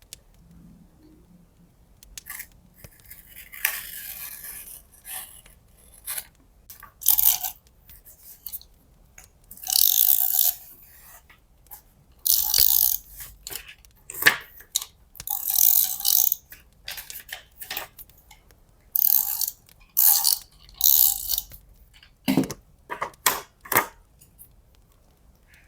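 Washi tape being peeled off its rolls: a series of short, sharp rasping strips, about a dozen, with a few light taps near the end.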